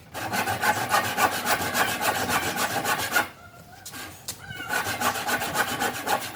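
Fast, even strokes of a hand tool working oak, rubbing and scraping over the wood. The strokes break off for about a second and a half just past the middle, then start again.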